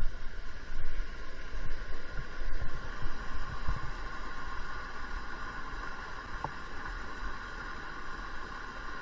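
Steady rush of a rain-swollen creek running high after a downpour, with uneven low thumps in the first four seconds.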